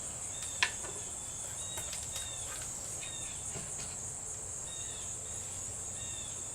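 Steady high-pitched insect trill, with short falling chirps repeating every second or so and a single sharp click about half a second in.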